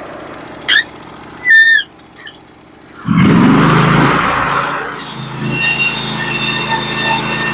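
Norwood HD36v2 bandsaw mill with its engine running low, a short high squeak and then a louder falling squeal in the first two seconds; about three seconds in the engine throttles up and settles into steady running at speed, with a high whine over it.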